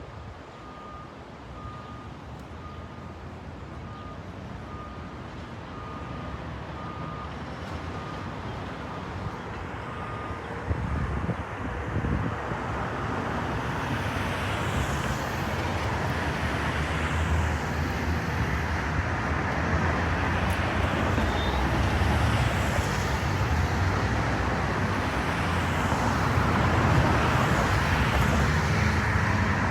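A vehicle's reversing alarm beeps in a steady, even series, stopping about a third of the way in. Then engine and road noise from traffic builds steadily louder.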